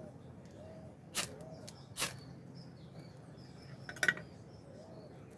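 Two short, sharp hissing scrapes about a second apart, then a louder crack about four seconds in, over a dove cooing again and again in the background.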